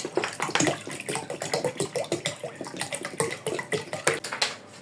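Bottled water poured into a container of grated ginger and squeezed lemon, splashing irregularly as it fills.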